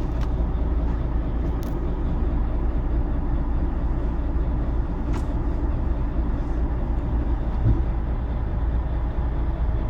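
Mercedes-Benz Actros MP3 truck's diesel engine idling, a steady low rumble with no change in speed.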